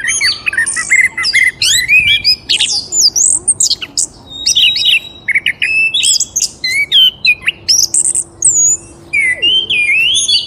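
Several small birds chirping and calling at once: a dense, continuous run of quick high chirps, trills and whistles, overlapping each other with only brief gaps.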